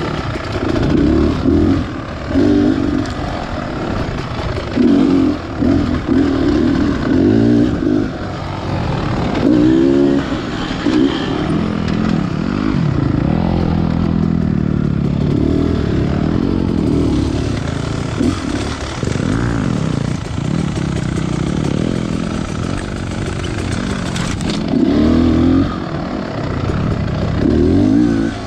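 Beta Xtrainer 300 two-stroke single-cylinder dirt bike engine being ridden hard, its revs rising and falling with repeated bursts of throttle. It runs steadier through the middle stretch before revving up in bursts again near the end.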